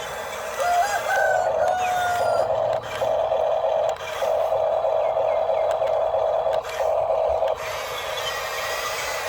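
Electric motor and gearbox of an RC construction model whining, starting and stopping in runs of one to two seconds. A crowing call rises and holds for about two seconds, starting about a second in.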